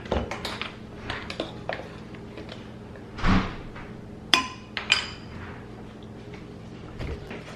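Metal measuring spoon clicking and clinking against a bowl while seasonings are measured in, with a short rustling burst about three seconds in and a sharp ringing clink about a second later.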